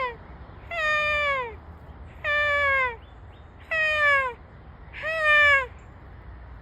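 A deer call sounding a series of bleats: the tail of one at the start, then four more of the same, each under a second long, level in pitch and dropping away at the end.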